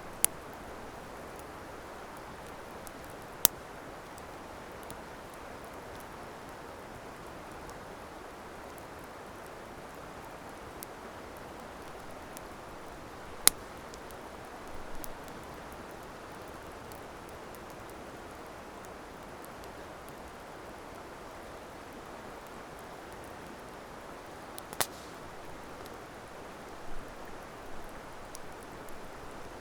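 Wood campfire burning, with a few sharp, widely spaced pops and crackles over a steady rushing hiss.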